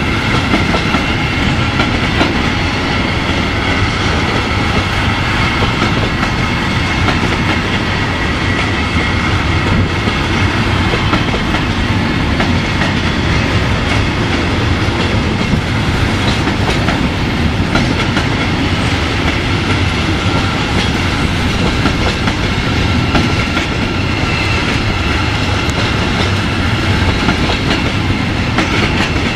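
A train rolling past at close range: a steady, loud rumble of wheels on rails, with a faint steady high whine above it, that keeps up without a break.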